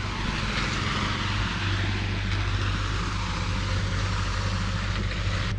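An engine running steadily: a constant low hum with an even hiss over it, without revving.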